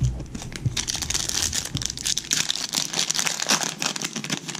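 A trading card pack's wrapper torn open and crinkled by hand: a dense run of crackles that stops near the end.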